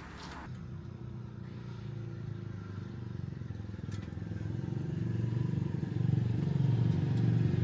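Motorbike engine running, growing steadily louder.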